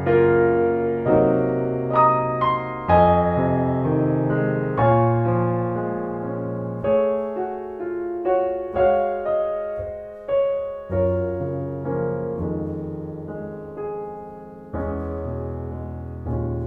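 Solo piano music: slow, gentle chords and single notes, each struck and left to ring and fade.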